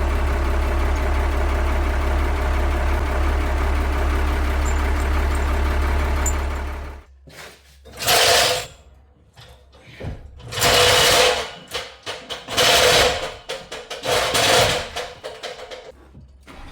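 An engine running steadily with a deep hum for about seven seconds, then cutting off abruptly; after that, four short bursts of a loud mechanical whirring noise with pauses between them.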